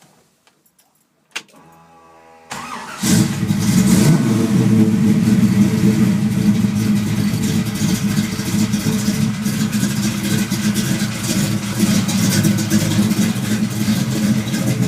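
1965 Mustang Fastback's 427-cubic-inch V8 cold-started: a click and a short crank of the starter, then the engine catches about two and a half seconds in, revs once and settles into a loud, steady idle.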